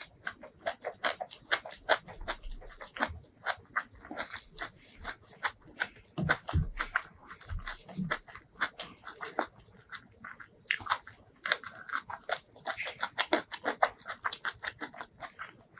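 Close-miked chewing of a mouthful of food: a dense, irregular run of quick mouth clicks and smacks, with a brief lull a little after the middle.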